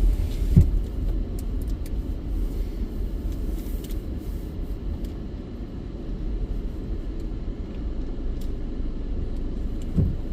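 Steady low rumble of a car running and rolling slowly, heard from inside the cabin, with two brief low thumps, one about half a second in and one near the end.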